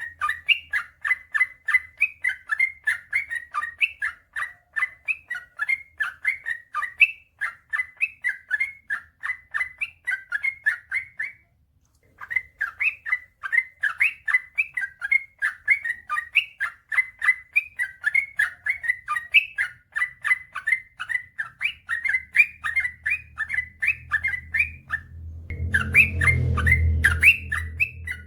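Yellow-vented bulbul (trucukan) singing a long, fast run of bubbling, chattering notes, about four a second, with a brief pause near the middle. Near the end a low rumble rises beneath the song.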